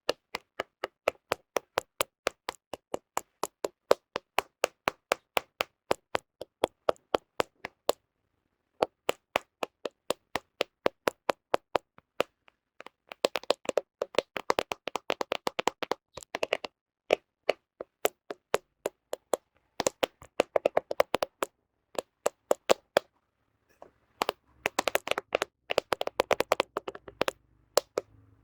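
Fingernails tapping on a smartphone camera right at the microphone: sharp, even taps about four a second, broken by a few short pauses and by stretches of quicker, denser tapping and scratching.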